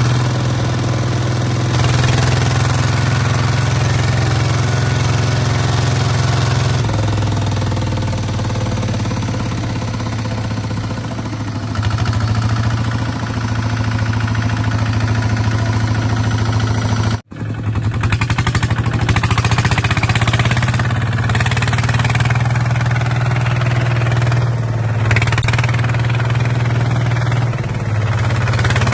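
Small bulldozer's engine running steadily at a constant low pitch, with some clatter. The sound cuts out for an instant about two-thirds of the way through, then carries on.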